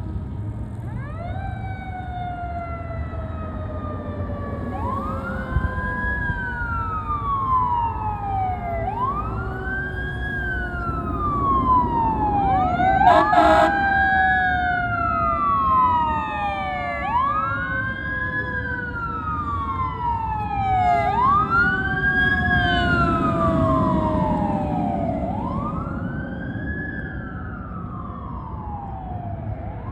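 Fire engine siren wailing as the engine responds: a tone that rises quickly and falls slowly, repeating about every four seconds, layered with a second siren tone that slowly glides down. A short loud burst about halfway through, over the low rumble of the truck.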